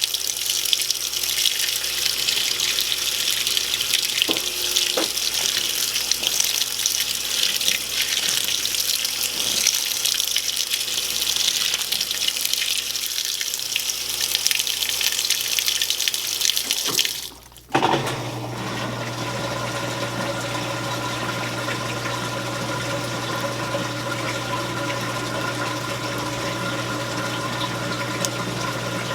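Belt-drive top-load washing machine (Admiral, built by Whirlpool) in its spray rinse: a steady rush of water spraying into the tub. About two-thirds of the way through the water cuts off and the motor and drain pump start a steady hum as the machine goes into its neutral drain.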